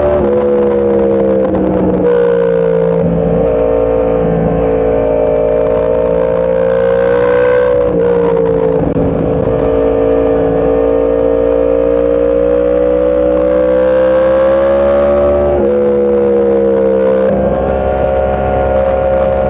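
Sport motorcycle engine running hard at sustained high revs with wind rushing past, its pitch stepping down abruptly near the start and again about three-quarters of the way through as gears change, then back up shortly after.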